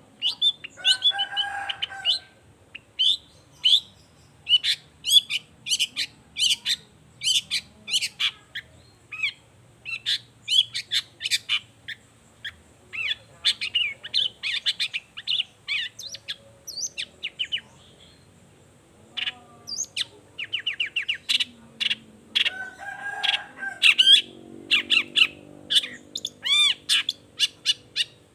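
Long-tailed shrike (cendet) singing: a fast, varied string of sharp chirps and whistled notes. A harsh, scratchy burst comes near the start and another about three-quarters through, with a rapid trill between them.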